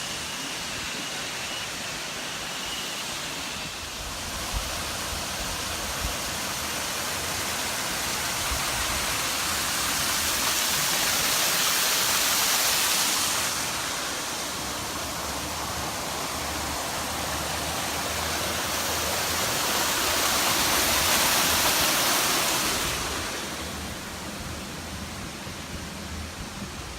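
Rushing water of a waterfall, a steady noise that swells louder twice and then fades near the end.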